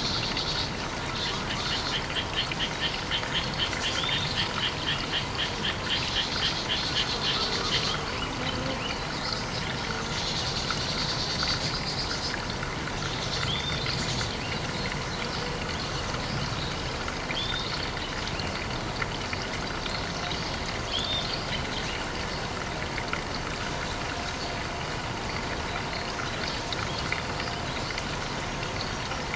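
Pond ambience: a steady wash of water noise, with a fast pulsing trill of animal calls through about the first eight seconds and three short chirps later on.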